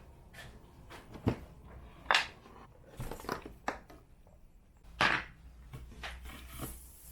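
A handful of light knocks and scrapes spread over several seconds, the loudest about two and five seconds in, as a 125 cc two-stroke motorcycle engine's bottom end is shifted into place on its stand.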